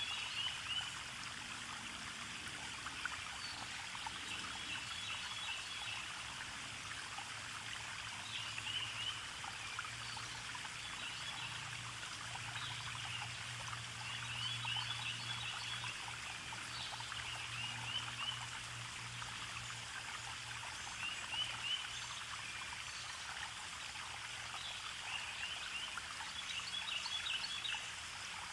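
Small forest stream trickling and babbling steadily over stones, with short clusters of high chirps every few seconds.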